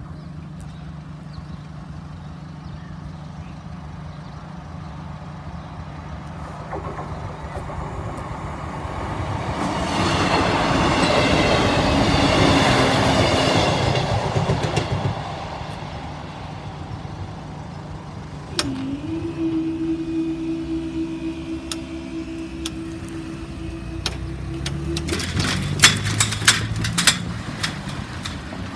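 A train passing over a level crossing, building up and loudest about ten to fifteen seconds in, then fading. Later a steady low tone sets in for several seconds, and a cluster of sharp clicks comes near the end.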